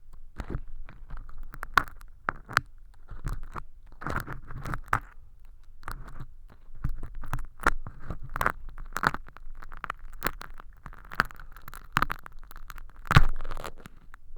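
Crisp crackling and crinkling of fake earwax made from crash hologram film as an ear-cleaning tool scrapes and peels it inside a transparent silicone ear model. The clicks and short crunchy bursts come irregularly, and the loudest crackle is near the end.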